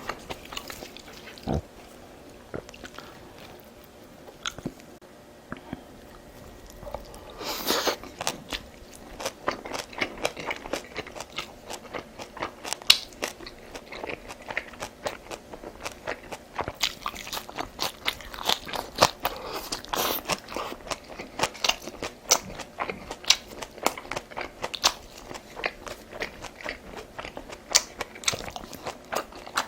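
A person chewing and biting food close to the microphone: many quick, sharp mouth clicks and crunches, sparse for the first several seconds and dense and continuous from about eight seconds in.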